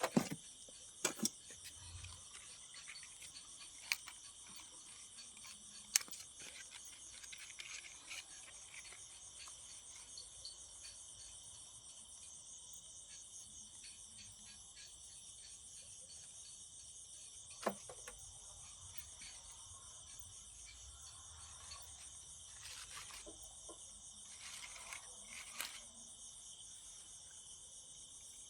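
Steady high-pitched chorus of insects chirping, with a few sharp clicks and snaps scattered through it, the loudest about six seconds in and another near eighteen seconds.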